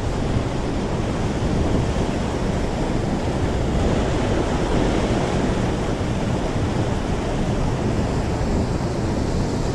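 Mountain stream water rushing, a steady, unbroken noise.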